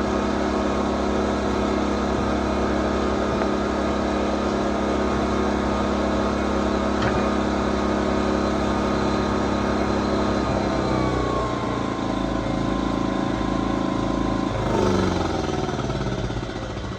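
Generac GP2200i inverter generator's small engine running steadily. Past ten seconds in its speed drops, and near the end it falls again and fades as it is shut off.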